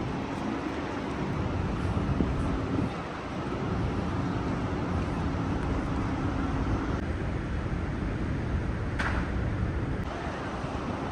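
Steady outdoor city noise with a traffic hum, and one short click about nine seconds in.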